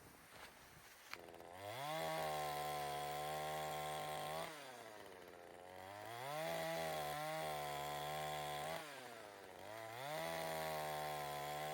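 Two-stroke chainsaw revved up three times. Each time the pitch rises to a steady high whine for about three seconds, then drops back toward idle.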